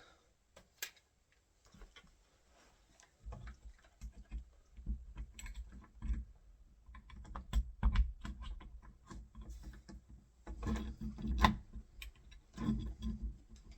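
Irregular light clicks and taps, some with low knocks, from small door-handle fittings being handled and set against a door. Quiet for the first few seconds, then busy.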